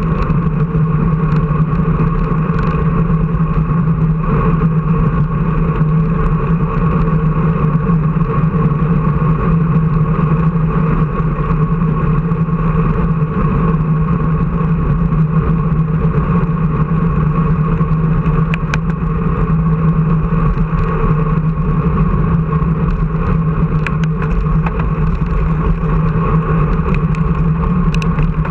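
A motor vehicle's engine drones steadily at constant speed, with an unchanging low hum and no revving up or down. A few faint clicks come through near the end.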